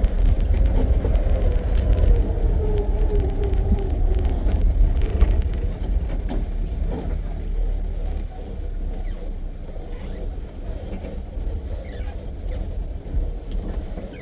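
Safari jeep's engine running as it drives along a forest track, with heavy low rumble. The engine note drops over the first few seconds and the sound eases off somewhat past the middle.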